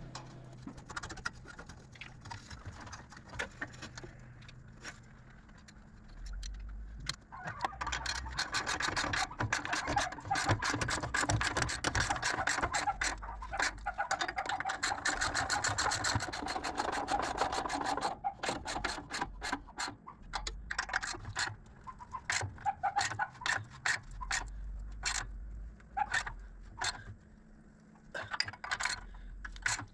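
Hand tools working on metal: irregular sharp clicks and scraping, with a stretch of dense, rapid clicking and rubbing through the middle.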